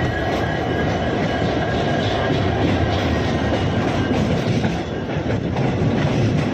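Train moving along the track: a steady, loud rumble of wheels on rails.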